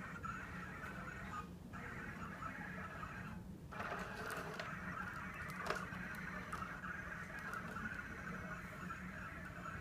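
Roomba's drive motors whirring steadily as it moves along the wall, with a low hum underneath. The whir cuts out briefly twice in the first few seconds, and there is a sharp click a little before six seconds in.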